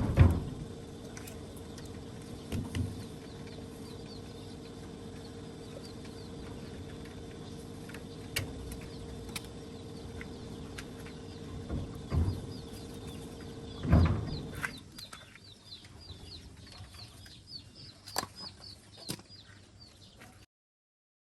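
Several heavy thumps and clunks from mechanical repair work over a steady hum. The hum stops about two-thirds of the way through, leaving birds chirping in quick repeated calls and a few light taps. The sound cuts out just before the end.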